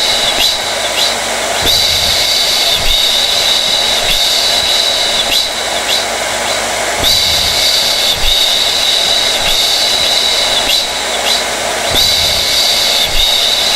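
Hair dryer running steadily: a rushing stream of air with a high whine that swells and fades every few seconds.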